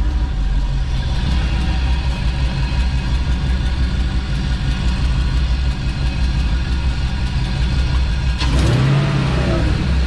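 V8 engine swapped into a Nissan G35, running steadily with an air filter fitted on its intake, which makes the intake noise somewhat quieter. About eight and a half seconds in there is a brief, louder change in the sound.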